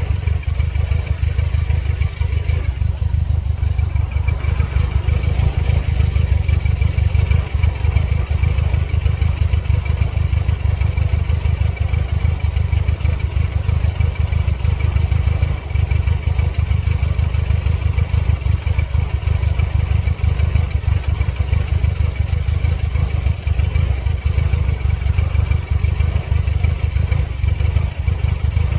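1999 Mercedes-Benz C230 Kompressor's supercharged four-cylinder engine idling with a fast, uneven pulse. The car has serious engine trouble and a check-engine light that flashes periodically.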